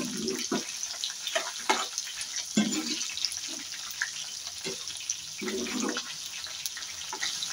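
Dried red chillies, garlic and ginger sizzling in oil in a frying pan over a very low flame, with a metal spoon scraping and stirring through them in short, repeated strokes.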